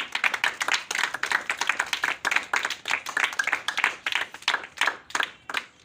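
Children clapping their hands, a quick irregular patter of claps that thins out to a few scattered claps near the end.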